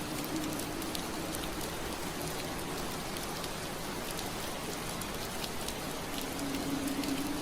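Steady rain on window glass: an even patter with scattered individual drop ticks. A low steady hum fades out shortly after the start and comes back about six seconds in.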